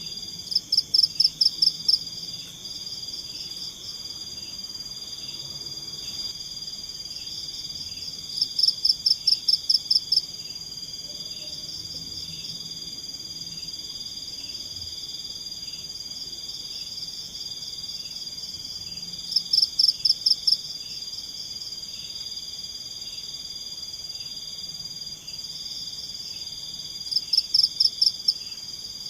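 Forest insects and frogs calling: a steady high-pitched insect drone with a softer pulsing call repeating about twice a second. Four times, roughly every eight to ten seconds, a loud rapid series of chirps lasts about a second and a half.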